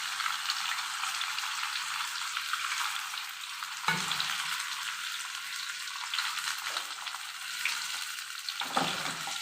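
Shaped, spice-coated chicken pieces sizzling in hot oil in a kadai. There is a steady hiss, with two short knocks about four seconds in and near the end.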